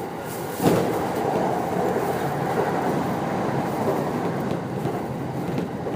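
Running noise of a JR 209-500 series electric commuter train at speed, with one loud rail-joint clack about two-thirds of a second in and fainter joint knocks later.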